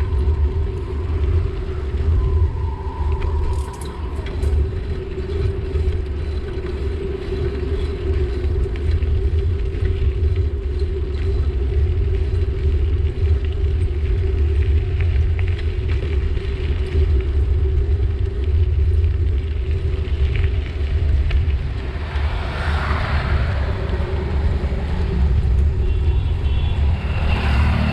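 Steady low rumble of wind buffeting an action camera's microphone on a moving bicycle, with road traffic around it. A vehicle swells past about 23 seconds in, and an engine with a steady pitch comes in near the end.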